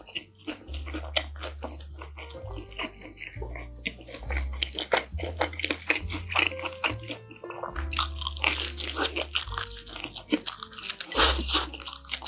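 Close-miked chewing and crunching of pizza, with the crunching heaviest about eight seconds in and again near the end as another bite is taken. Background music with a steady bass line plays underneath.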